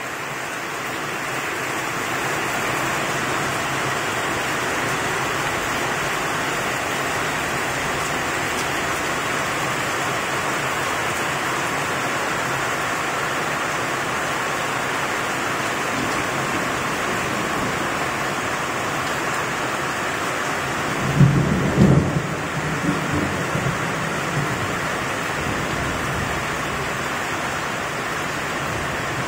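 Heavy rain pouring steadily onto a garden and off a roof gutter. About twenty seconds in, a short, low rumble of thunder comes in two or three surges and is the loudest sound.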